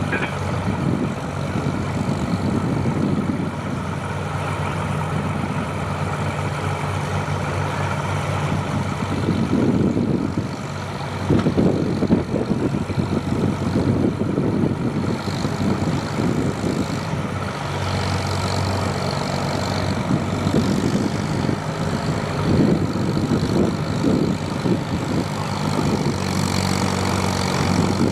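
Tractor engine running at a steady pitch, with rougher, uneven stretches from about nine seconds in.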